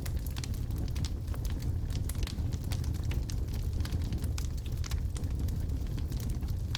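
Wood logs burning in a fireplace: a steady low rumble of the flames with frequent sharp crackles and pops scattered irregularly throughout.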